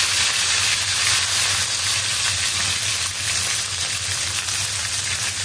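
Freshly added bean sprouts sizzling in hot oil, a steady frying hiss.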